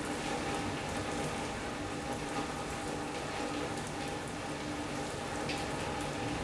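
Steady rain falling on a sunroom roof and glass: a dense, even patter of drops with no thunder.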